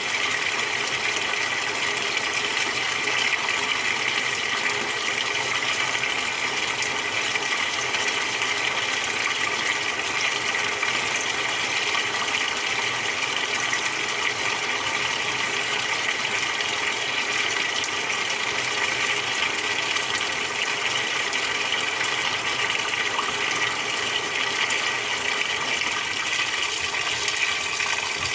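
Water running steadily inside a Samsung 6.5 kg top-loading washing machine during a quick cycle.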